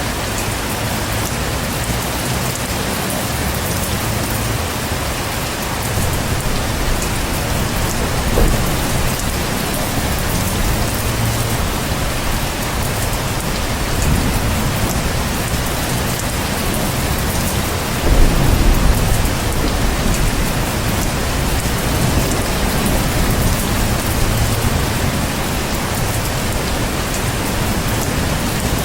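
Heavy rain falling steadily, with a low rumble of thunder about two-thirds of the way through.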